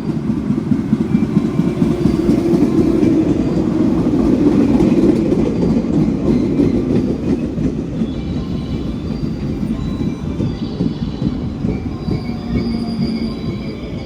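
Train running on the JR San'in Main Line, a heavy rumble of wheels on rail that builds to its loudest about five seconds in and then slowly fades. Faint high squealing tones come in during the second half.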